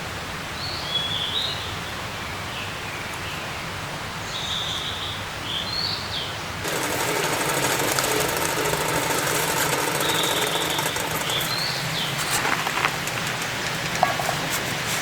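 Birds chirping now and then over a steady outdoor hiss; about halfway through, the hiss suddenly turns louder and brighter into the even patter of rain, with a few sharp drip ticks near the end.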